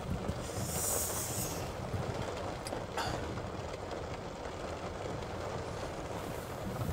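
Strong wind and rain buffeting a light truck: a steady rumble with hiss, a stronger rush of hiss about a second in, and a couple of sharp ticks about three seconds in.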